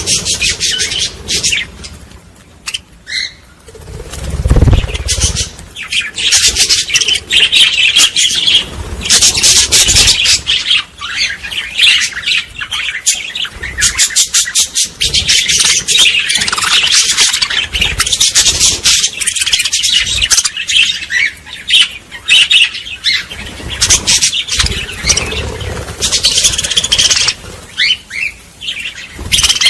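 Many small birds chirping and twittering together in a dense, rapid chorus, with a brief lull a few seconds in and a low thud about four and a half seconds in.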